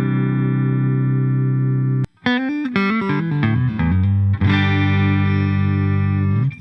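Clifton Alnico-pickup Stratocaster-style electric guitar played through effects. A held chord is cut off sharply about two seconds in, then comes a quick falling run of single notes, then another held chord that is muted just at the end.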